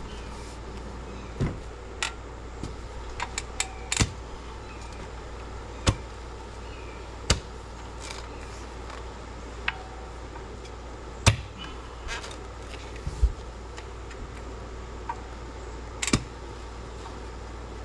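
A digging tool striking hard, rocky ground in sharp single blows at uneven intervals, about every one to two seconds.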